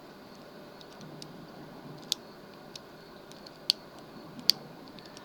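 Sparse, sharp metallic clicks of a lock pick jabbing the pins of a pin-tumbler lock under a tension wrench, a few louder ones about two, three and a half, and four and a half seconds in.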